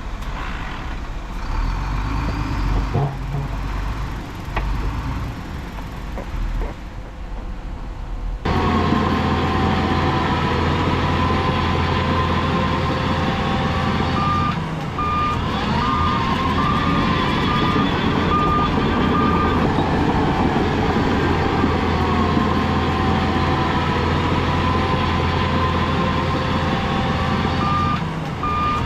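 Diesel engine of heavy earthmoving machinery running, louder after a sudden change about a third of the way in. A reversing alarm beeps in short, evenly spaced runs about halfway through and again near the end.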